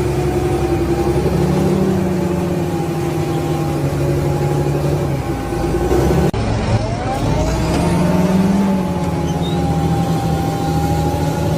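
Large farm tractor's diesel engine running steadily. An abrupt cut comes about six seconds in, after which the engine note rises and then holds steady.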